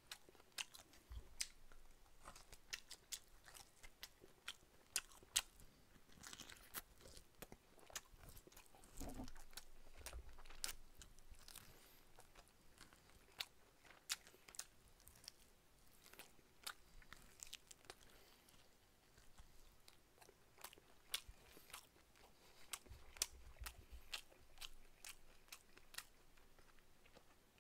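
Faint chewing and gnawing on pork back ribs eaten by hand: many short, quiet mouth clicks and smacks as meat is pulled off the bone.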